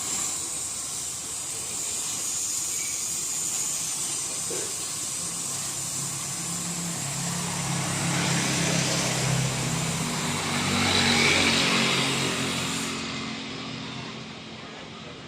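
Welding arc hissing steadily while the exhaust pipe joint is tack-welded, stopping about two seconds before the end. A motor vehicle engine swells up in the middle and fades.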